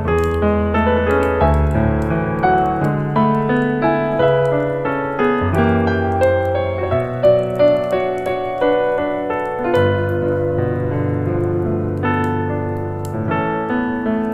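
Slow jazz piano music, with long low notes held beneath the melody. Faint sharp crackles from a fireplace run through it.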